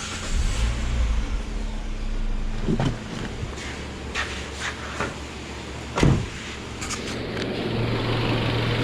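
Citroën C4 petrol engine starting up and settling into a steady idle, with two sharp knocks along the way. Fitted with a new intake-side valve cover, it runs without the whistling noise that the faulty cover had caused.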